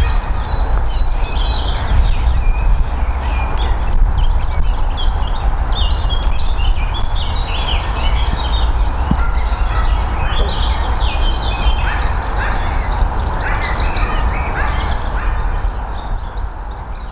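Many birds calling at once, a dense chorus of short chirps and calls, over a steady low rumble, fading near the end.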